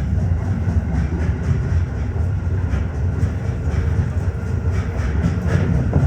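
Tokyo Metro 15000 series electric train running at speed, a steady low rumble with light scattered clicks from the wheels over the rails, heard from inside the car.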